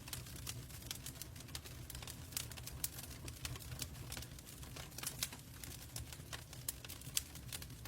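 Logs burning in a fireplace, crackling with irregular sharp pops and snaps over a low, steady rumble. The sharpest pop comes near the end.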